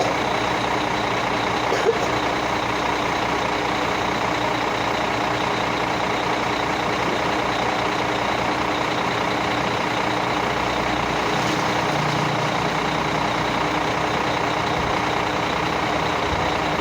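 A heavy vehicle's engine running steadily at a constant pitch, with no clear revving or stopping.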